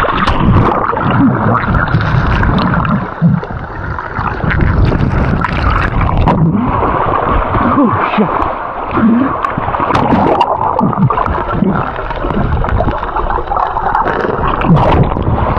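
Swift river rapid water rushing and gurgling close around the camera, with bubbling glides, as a swimmer goes down through the rapid.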